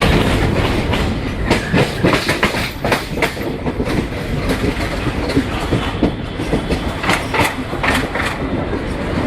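Indian Railways express train rolling slowly through a station without stopping. A steady heavy rumble runs throughout, with clusters of wheel clicks over rail joints, about a second and a half in and again around seven seconds in.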